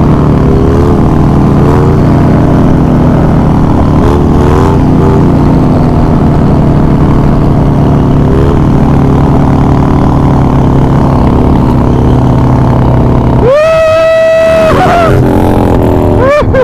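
Harley-Davidson Dyna's V-twin engine running steadily at speed. About thirteen seconds in the engine sound drops away for a second and a half under a loud, high-pitched whoop that rises and then holds.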